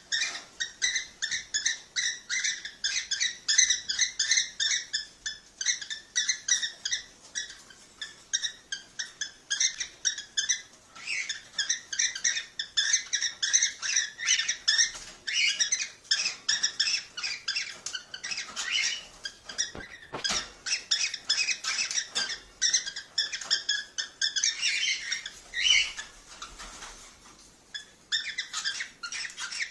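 Cockatiels chirping and warbling in a fast, dense run of short, high calls, thinning out briefly near the end before picking up again.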